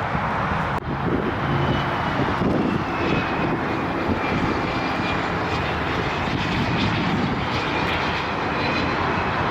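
Jet airliner on landing approach passing close by: a steady engine roar with a faint high whine that drifts slightly in pitch.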